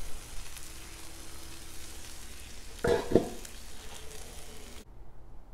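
Egg and pork chop sizzling on a hot Blackstone flat-top griddle, a steady crackling hiss. A couple of sharp knocks come about three seconds in, and the sizzle cuts off abruptly near the end.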